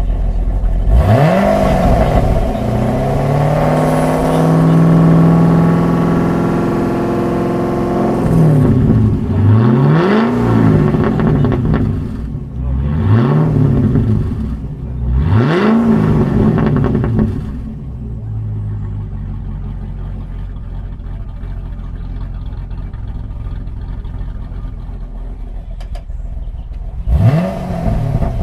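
2010 Holden ute's L76 6.0-litre V8 through VXR8 headers and a modified exhaust, revved while standing: one rev held high for several seconds, then three quick blips, settling into a steady idle, with one more short blip near the end.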